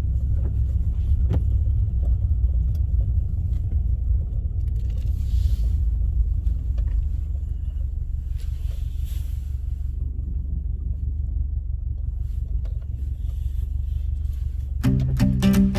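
Steady low rumble of a vehicle driving. Plucked-string music comes in just before the end.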